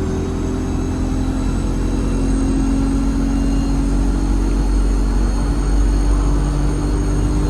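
ADL Enviro 200 bus engine pulling under way, with a loud, high-pitched turbocharger whistle held above a low engine drone; the whistle rises a little early on and then holds steady.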